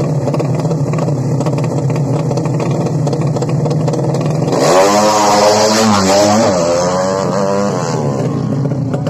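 Drag-racing motorcycle engine running steadily, then revved hard from about halfway, its pitch rising and falling for about three seconds before dropping back to a steady run.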